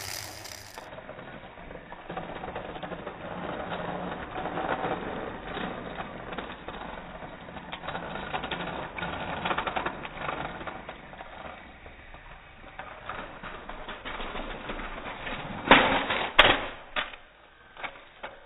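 Battery-powered Trackmaster toy train's motor running with a rapid clicking rattle as it struggles up an incline of toy track and cannot make it. A few sharp knocks near the end.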